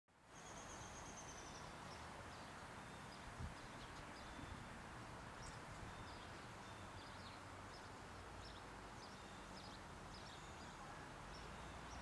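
Faint outdoor birdsong: many short, high chirps of small songbirds scattered through, with a thin high note near the start, over a steady background hiss. A soft low bump about three and a half seconds in.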